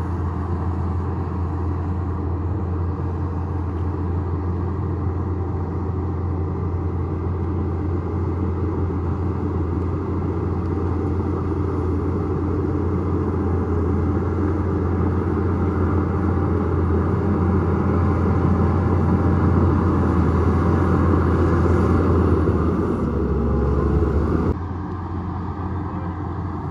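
Bulldozer's diesel engine running steadily with a deep drone, growing louder over most of the stretch, then dropping suddenly about two seconds before the end.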